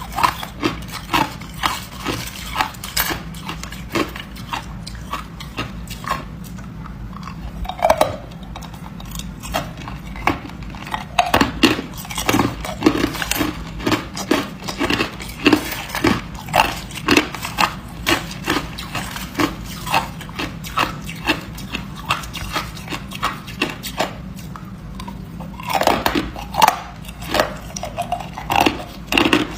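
A person biting and chewing hard ice close to the microphone: a steady run of sharp crunches and cracks, several a second, with louder clusters of bites about a third of the way in and again near the end.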